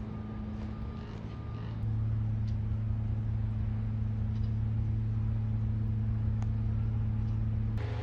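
Heavy vehicle engine running with a steady low drone, growing louder about two seconds in.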